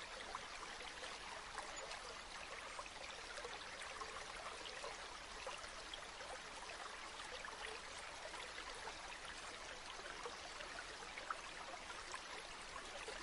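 Steady flowing water of a river, a continuous trickling rush dotted with many small splashes.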